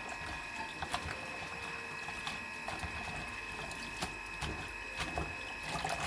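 Kitchen sounds during cooking: a steady high-pitched hum with scattered light clicks and knocks.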